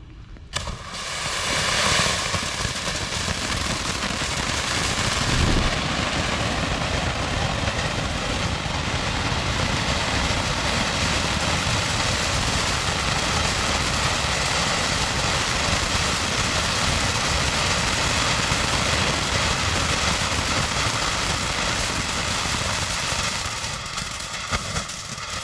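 A 200-gram fountain firework (Big Show by Boom Boom Fireworks) burning, a steady rushing hiss of sparks that starts about half a second in and stops shortly before the end.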